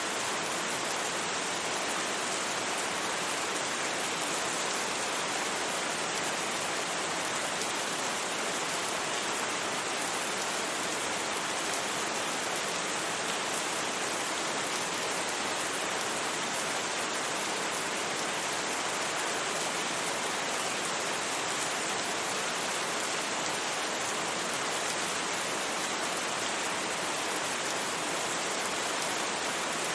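Steady rain falling, a constant even hiss of drops with no thunder and no single sounds standing out.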